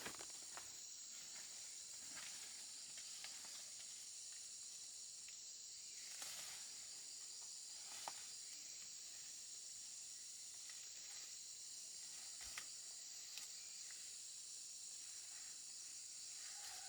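A steady, high-pitched chorus of insects droning without a break, with a few faint clicks and snaps scattered through it.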